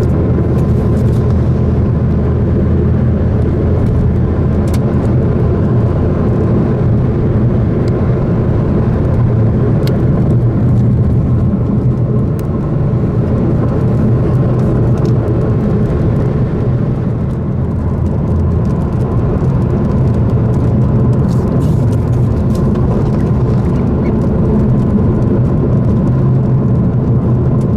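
Car driving: a steady engine and road-noise rumble with no change in pace.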